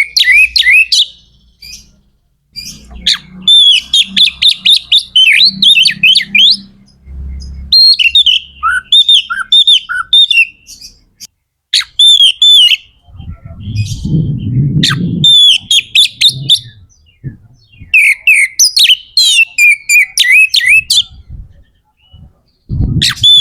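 Oriental magpie-robin (kacer) singing in full, vigorous song: phrases of rapid, repeated whistled notes, separated by short pauses. A low rumble sits under the song about halfway through and again at the end.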